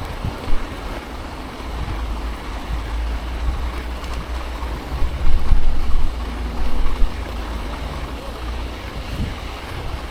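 Wind buffeting the microphone of a chest-mounted action camera on a moving bicycle: a steady deep rumble, with louder gusts a few seconds in.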